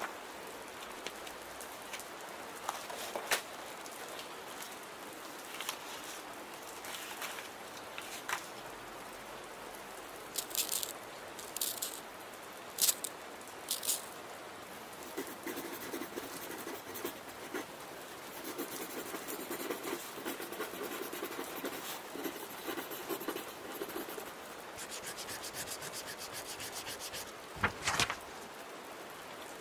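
Steady rain with a pen scratching on paper, mixed with scattered light clicks and paper rustles, and one louder thump near the end.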